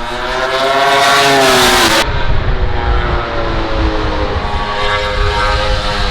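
MotoGP race motorcycle passing at high revs, its high engine note rising and then falling as it goes by, cut off sharply about two seconds in. Engine sound then continues more steadily, its pitch rising again near the end.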